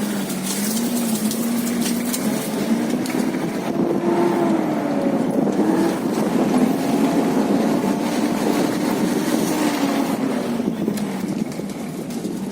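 Toyota Land Cruiser engine driving off-road. The revs climb about four seconds in, are held for several seconds and ease back near the end, with scattered knocks over it.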